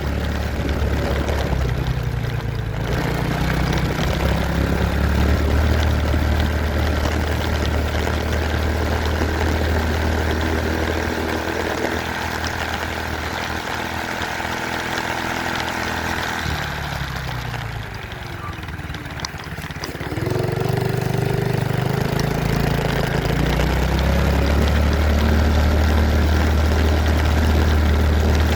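Dirt bike engine running while ridden, its pitch rising and falling with the throttle. About two-thirds of the way through it drops back and quietens, then revs up again.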